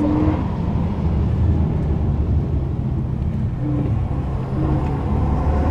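Renault Mégane RS 265's turbocharged four-cylinder engine running under way, heard from inside the cabin with road and tyre rumble.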